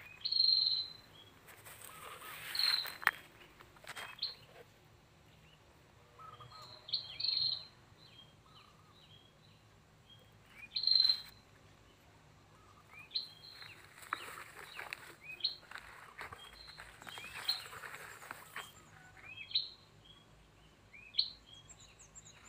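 Outdoor birdsong: scattered short chirps and calls from several birds, the loudest about half a second in and again about eleven seconds in, with a few brief noisy swishes in between.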